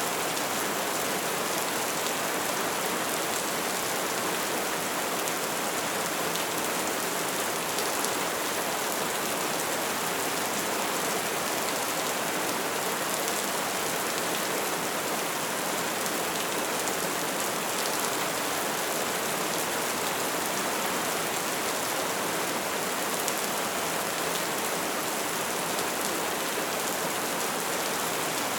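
Bonfire burning with a steady, dense crackle and a few sharper pops.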